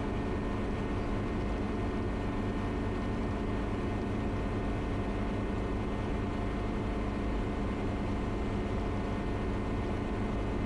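Schweizer 300 (Hughes 269) helicopter's piston engine and rotor running steadily at takeoff power during the low acceleration after liftoff, heard through the cockpit intercom audio.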